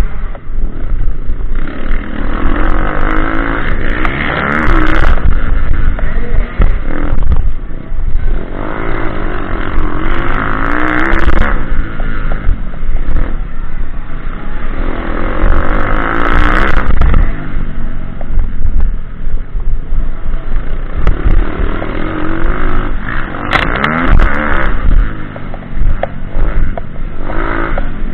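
Pitbike engine revving hard and easing off in repeated surges every few seconds, with brief clattering.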